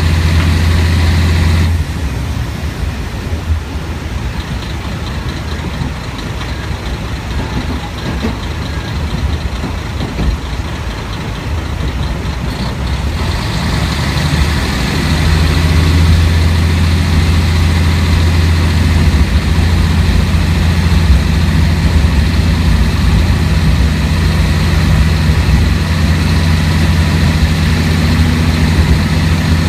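Diesel engine of a Kashima Rinkai Railway 6000-series railcar heard from inside the car: a loud low engine hum drops away suddenly about two seconds in, leaving quieter running noise, then the engine comes back strongly about fifteen seconds in and runs steadily under power.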